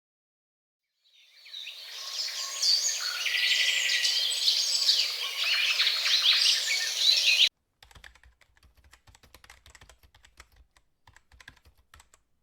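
A chorus of songbirds chirping and singing together, fading in over about a second and cutting off abruptly after about six seconds. Then faint, quick clicking of computer keyboard typing.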